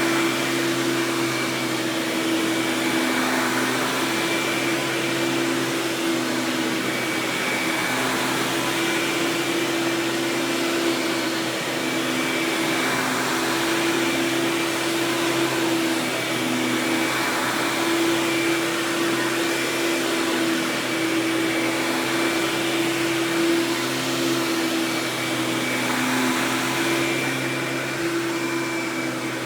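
Hoover Power Drive Supreme direct-air upright vacuum, fitted with a Quadraflex brush roll, running steadily: a continuous motor and fan rush with a steady hum and a faint high whine, running very smooth.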